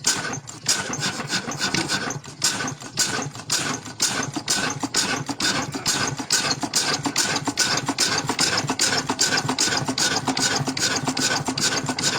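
Old water-pump engine running with an even, regular knock of several beats a second that quickens slightly as it goes.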